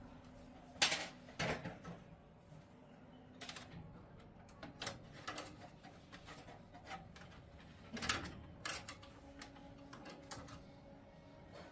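Scattered sharp clicks and knocks, a second or more apart, of tools and metal or plastic parts being handled during repair work.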